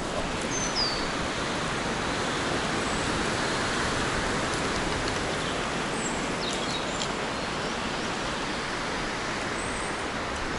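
Wind rushing through forest trees, a steady noise that swells a little in the middle, with a few faint bird chirps.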